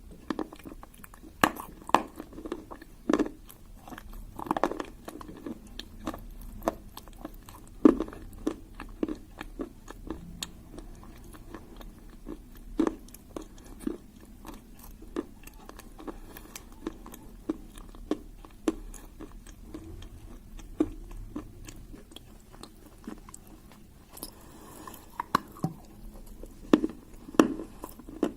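A person biting and chewing pieces of dry clay: crisp, irregular crunches with a louder bite every second or two.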